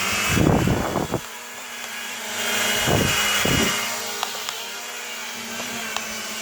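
Propel Flex 2.0 mini quadcopter's small electric motors and propellers buzzing steadily in flight, with two brief loud low bursts, about half a second in and about three seconds in, and a few light ticks later.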